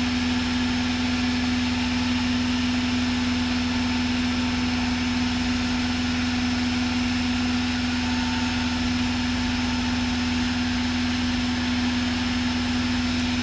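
Light single-engine aircraft, a Cessna 172, in cruise: the engine and propeller drone steadily in the cabin, with a strong constant tone, picked up through the headset intercom.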